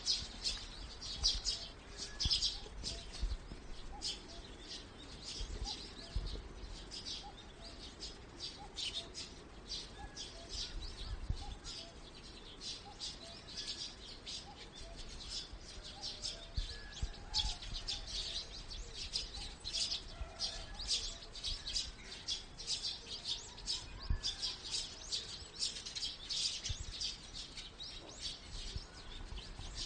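Many small birds chirping, quick high calls repeating throughout, with a few fainter lower notes.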